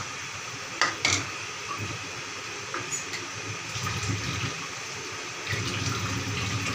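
Tomato-onion masala sizzling as it fries in a steel karahi, with two sharp clinks of a slotted spoon against the pan about a second in.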